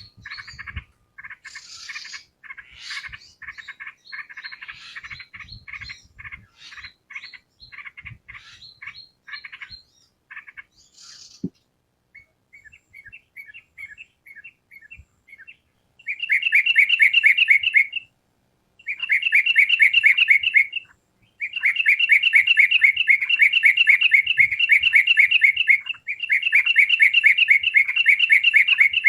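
Yellow-vented bulbul (trucukan) singing. For about the first ten seconds come quick runs of chirping notes; after a quieter stretch, the second half has loud, fast phrases of rapidly repeated notes lasting a few seconds each, broken by short pauses.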